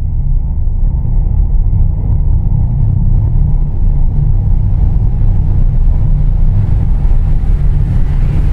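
Loud, steady low rumble that slowly grows fuller and brighter, which the explorers take to be coming from a loudspeaker.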